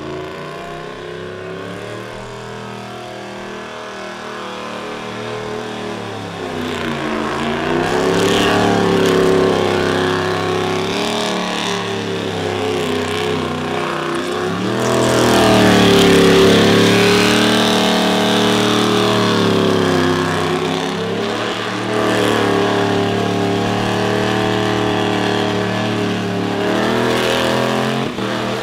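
Car engine revved high and held there during a burnout, its pitch sagging and climbing back several times and loudest about halfway through.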